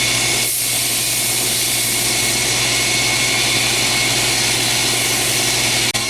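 Grinder running with steel held to the wheel for a spark test, a steady whir and grinding hiss. The steel is suspected high-carbon bearing-race stock. The sound cuts out for an instant near the end.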